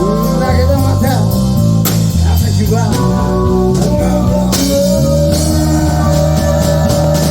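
Live band playing a rock song with guitar, bass and drums. A long held lead note comes in about halfway through and bends slightly near the end.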